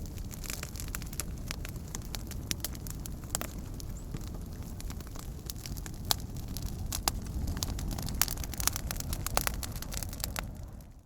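Wood campfire burning, with a steady low rumble of flames and frequent sharp crackles and pops. It fades out right at the end.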